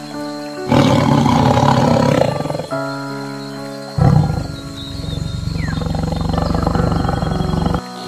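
Big cat growling twice over soft background music: a growl of about two seconds starting just under a second in, then a longer, rattling growl from about halfway that stops shortly before the end.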